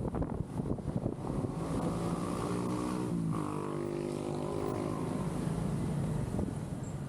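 Motorcycle engine running while riding, its pitch dipping briefly about three seconds in and then rising again.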